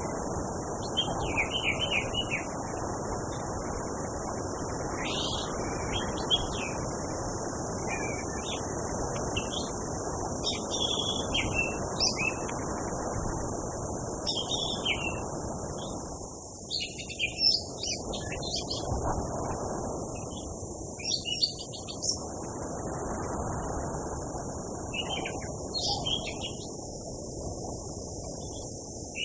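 Orange-headed thrush singing, short varied whistled phrases coming every second or two. Underneath are a steady high hiss and a broad low background noise.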